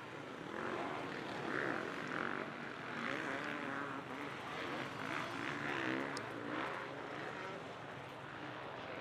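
KTM motocross bikes running on the track, their engines revving up and down in pitch and swelling and fading as riders pass.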